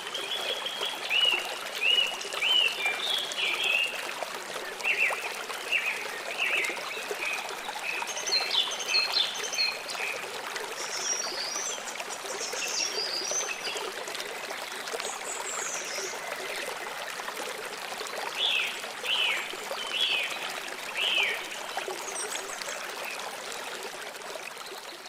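Steady rush of flowing stream water with small birds chirping in scattered bursts over it; the whole fades down near the end.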